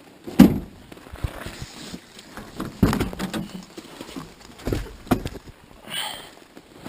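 Irregular knocks and thumps, spaced unevenly a second or two apart, over a low background noise.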